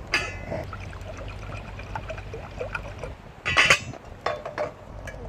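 Small objects being handled: scattered clicks and knocks, with a ringing clink at the start and a louder one about three and a half seconds in.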